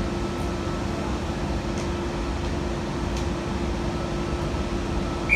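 Double-deck electric train standing at the platform, its air-conditioning and onboard equipment giving a steady hum. A short high beep starts right at the end.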